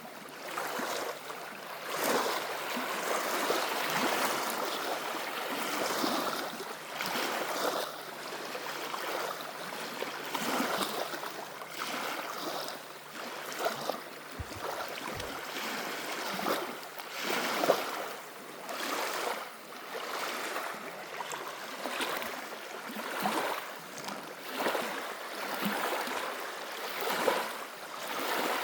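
Small waves on a lake lapping and splashing, with many short splashes and a level that swells and falls every second or two.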